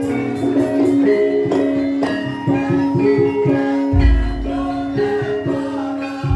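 Javanese gamelan music: short metallophone notes play a melody over a steady held tone, with a deep low stroke about four seconds in.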